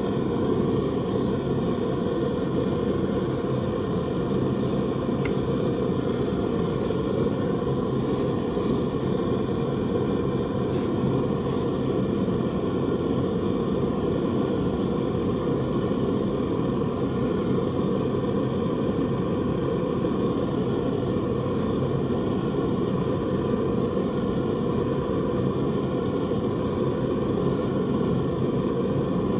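A forge running with a steady, even roar, with no change in pitch or level.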